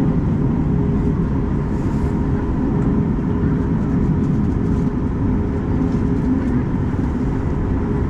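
Boeing 737 MAX 8-200 cabin noise with its CFM LEAP-1B engines running: a steady, loud low rumble with a constant hum on top.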